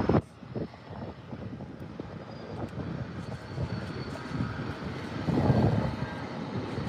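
Airplane engines running during a landing in gusty wind, a steady noisy drone with a faint high whine. A loud gust on the microphone cuts off just after the start, and the sound swells briefly about five seconds in.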